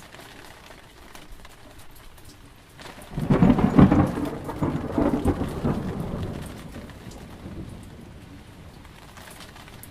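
Steady rain with a loud rumble of thunder that starts about three seconds in and fades away over the next few seconds.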